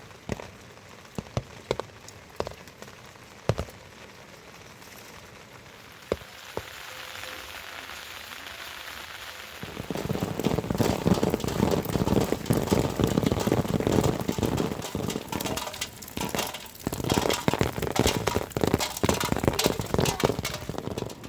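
Rain falling, at first light, with a scattering of separate drops ticking close by. About halfway through it becomes much louder and denser, a steady patter of many drops striking a surface near the microphone.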